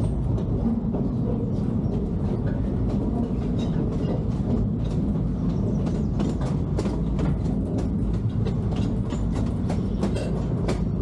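Open-sided passenger car of an amusement-park railroad rolling along the track: a steady low rumble with frequent clicks and clacks from the wheels on the rails.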